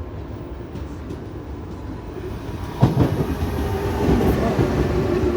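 Z 20900 electric multiple unit on RER C running on the track, a low rumble with wheels clattering over rail joints and a steady motor hum. A sharp knock comes about three seconds in, and the sound gets louder after it.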